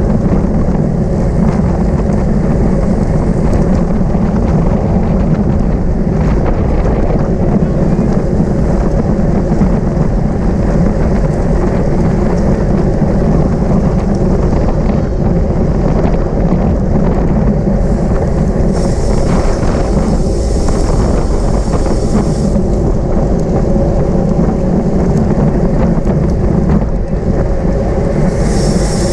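Steady, loud wind rumble on the microphone of a camera riding at race speed, mixed with road noise. A higher hiss joins about two-thirds of the way through and again near the end.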